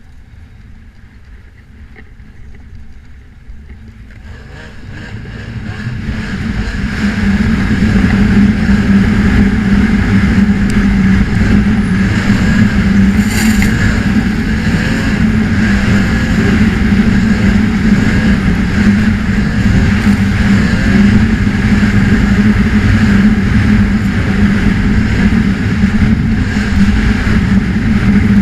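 Snowmobile engine getting louder over the first several seconds as it picks up speed, then running steadily at speed.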